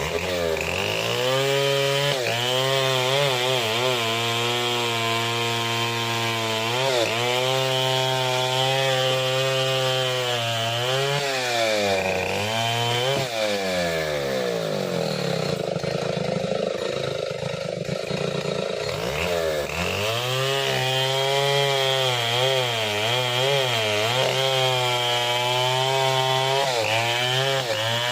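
Stihl 070 two-stroke chainsaw cutting through a Jabon log. The engine pitch drops and recovers several times as the chain bogs in the wood, and it runs at lower revs for a few seconds in the middle.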